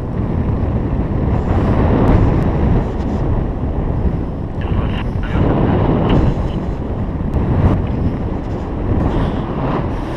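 Wind buffeting the microphone in paraglider flight: a low, steady rumble that swells and eases in gusts.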